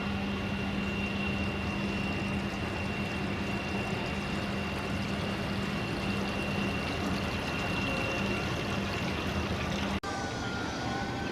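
Steady rushing noise of a ship under way, water and machinery, with a constant low hum and a thin high whine; about ten seconds in it cuts abruptly to similar rushing noise with a faint wavering tone.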